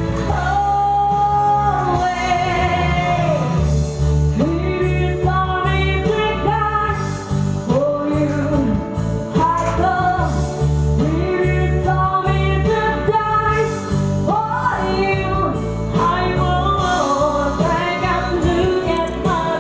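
A solo voice singing a song over instrumental backing with a steady bass line, holding long notes with vibrato.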